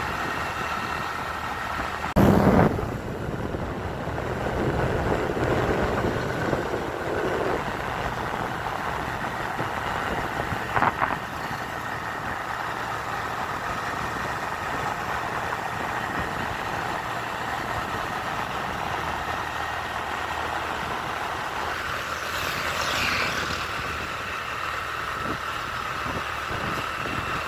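A motor vehicle running steadily, with brief loud knocks about two seconds in and again about eleven seconds in.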